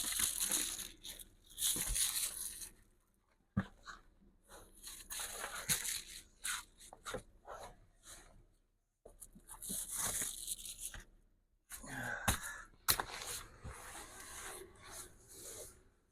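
Makeshift window covers being pulled down and handled in a truck cab: repeated rustling and tearing sounds, each lasting a second or two, with sharp clicks and knocks in between.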